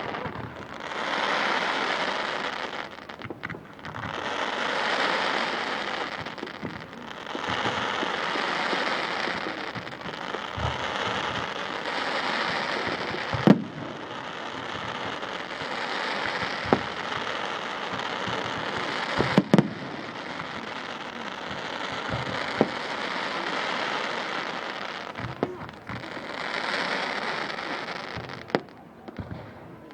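Fireworks display: crackling shells going off in swells of a few seconds each, with scattered cracks and a few sharp bangs, the loudest about thirteen seconds in and a close pair about six seconds later.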